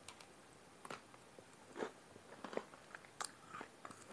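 Faint, crisp crunches of a person biting and chewing Pocky biscuit sticks, coming in scattered, irregular snaps.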